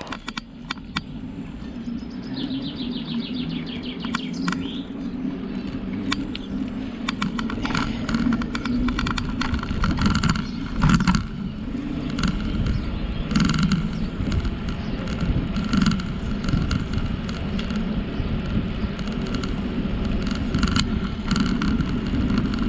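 Bicycle being ridden: a low rumble from the tyres on the path, growing louder, with scattered clicks and rattles from the bike. About two to four seconds in, the rear freewheel ticks rapidly while coasting.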